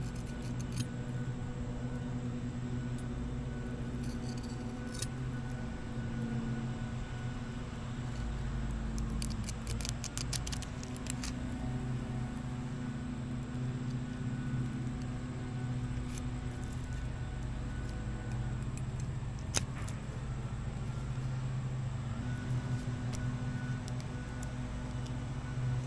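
A steady motor hum with a constant low pitch, with scattered light clicks and taps over it.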